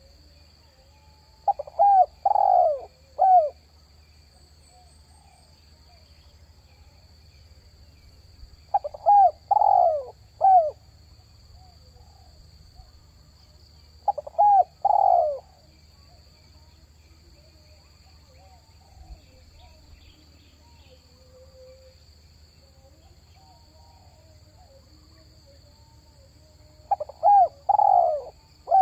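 Spotted dove (tekukur) cooing in phrases of three or four quick falling notes, four phrases several seconds apart, about 1.5, 9, 14 and 27 seconds in. A faint steady high whine runs underneath.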